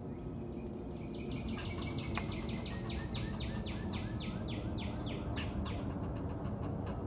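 Squirrel calling in a fast, even series of short calls, about four a second, starting about a second in and stopping near the end, over a steady low background rumble.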